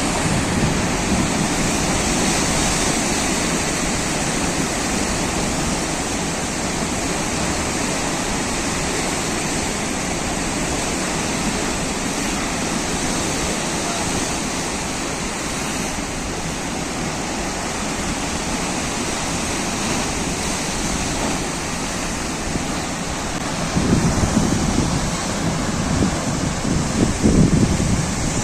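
Sea surf washing continuously in a steady hiss, with a few louder low surges near the end.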